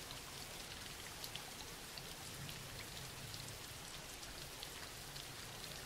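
Faint, steady rain, with scattered small drop ticks through it.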